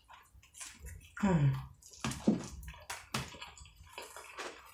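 Close-up eating sounds of a crunchy hard-shell taco topped with Doritos chips being bitten and chewed: a series of crisp crunches and wet mouth sounds, with two short falling hums from the eater, about a second and two seconds in.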